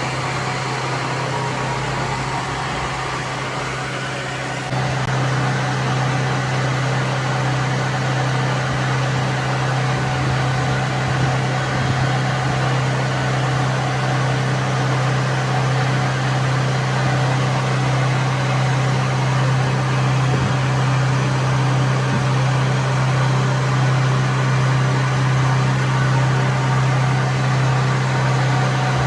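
A motor or engine running steadily with a constant deep hum, which gets louder about five seconds in.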